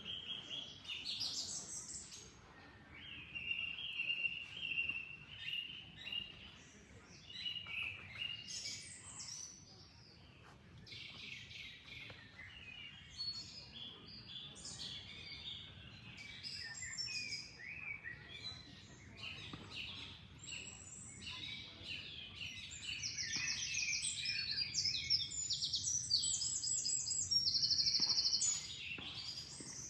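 Several songbirds chirping and singing in a busy chorus, with quick trilled calls growing louder over the last several seconds, over a faint, steady low background noise.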